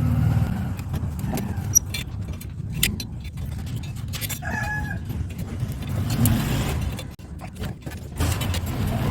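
Sharp metallic clicks and small rattles of a screwdriver and loose metal parts as a microwave magnetron is taken apart, over a steady low rumble like vehicle traffic. A short pitched call, like a chicken's, sounds about four and a half seconds in.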